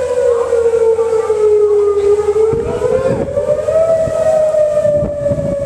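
Outdoor tornado warning siren wailing, its pitch sliding slowly down and then back up about halfway through, sounding a tornado warning. Gusts of wind rumble on the microphone from about halfway on.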